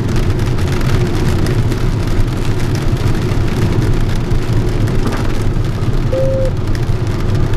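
Rain and rushing airflow in a JS-1 sailplane's cockpit on final approach: a steady, loud noise heaviest in the low end. A short steady tone sounds about six seconds in.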